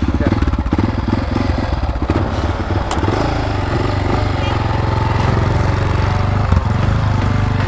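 Dirt bike engines running, a steady low pulsing.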